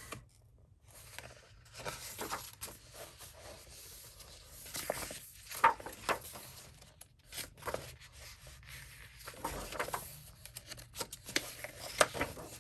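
Pages of a coloring book being turned one after another: irregular paper rustles and swishes, with a few sharp flicks.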